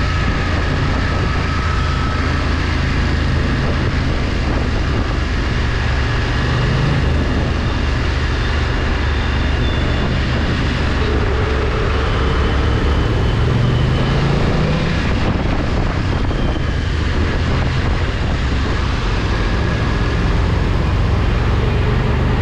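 Motorcycle under way: engine running steadily with a low road-and-wind rumble, its note rising briefly about halfway through.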